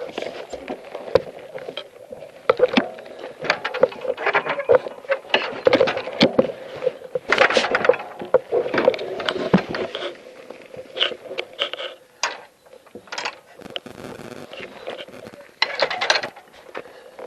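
Bicycle ridden over a bumpy gravel track: tyres crunching and a steady run of irregular knocks and rattles from the bike and the jolting handheld camera.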